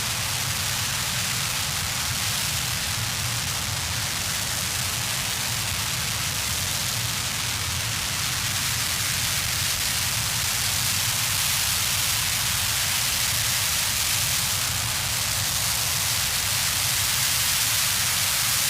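RS-25 liquid hydrogen/oxygen rocket engine running in a hot-fire test: a steady, dense hiss with a low rumble underneath, growing slightly louder in the second half.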